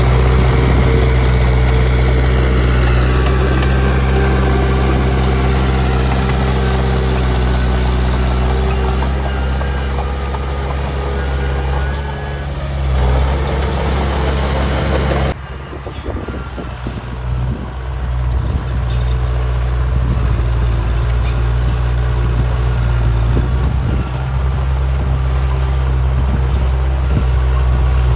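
Heavy diesel engine of earthmoving machinery running steadily, with a wide noisy layer over it that stops abruptly about halfway through, leaving the lower engine drone.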